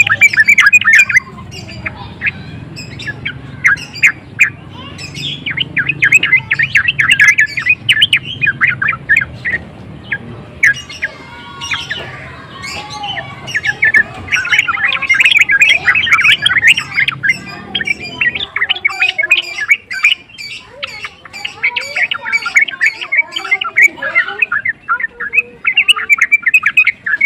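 Yellow-vented bulbul (trucukan) singing in loud, rapid chattering phrases, several runs separated by short pauses. A low hum under the song stops about two-thirds of the way through.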